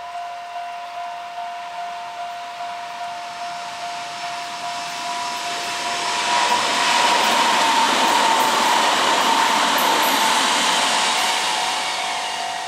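A level-crossing warning bell rings steadily, about two strokes a second. About six seconds in, a Kintetsu red-and-cream electric train runs past with a loud rush of wheel and motor noise, loudest for several seconds before it starts to fade near the end.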